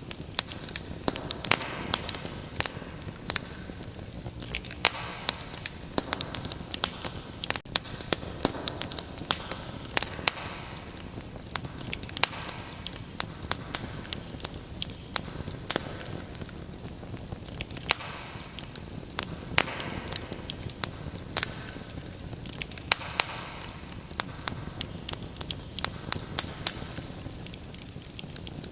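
Fire in a fireplace crackling: many irregular sharp snaps and pops over a steady hiss of flame, with the hiss swelling and easing every few seconds.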